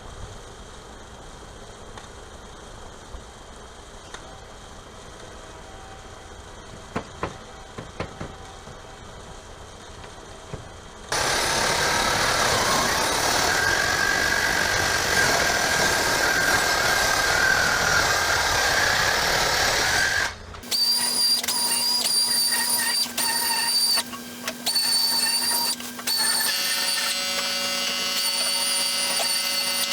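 Power tools at work. About ten seconds in, a loud rushing tool runs for about nine seconds; then a second tool with a steady whine runs, stopping briefly several times.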